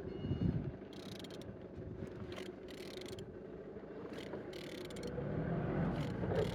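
Opel/Vauxhall Z16XER 1.6-litre four-cylinder petrol engine idling steadily, with light clicks over the running. It gets a little louder about five seconds in.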